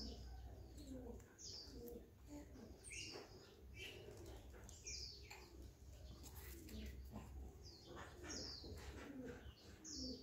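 Faint bird calls: short, high chirps falling in pitch every one to two seconds, with lower cooing notes beneath.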